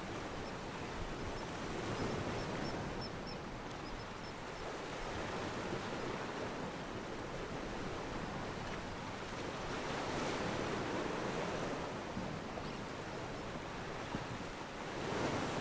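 Steady rushing of wind and water at a harbour, swelling and easing every few seconds.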